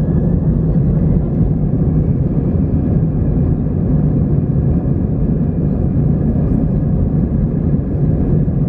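Airbus A319-111 cabin noise: the CFM56 jet engines running at high thrust with airflow over the fuselage, a loud, steady low roar heard from a window seat during takeoff.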